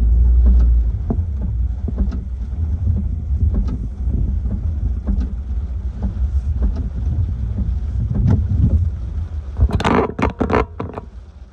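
Hurricane winds buffeting the microphone: a heavy, steady low rumble with scattered sharp cracks. About ten seconds in comes a short burst of loud crackling hits.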